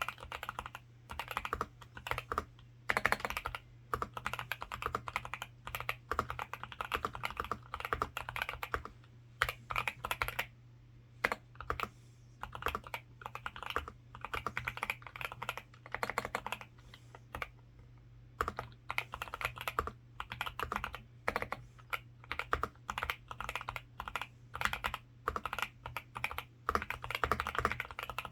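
Typing in quick runs on a Zuoya GMK87 mechanical keyboard with Outemu Linear Cream Pink linear switches, dense keystrokes broken by brief pauses. A faint steady low hum runs underneath.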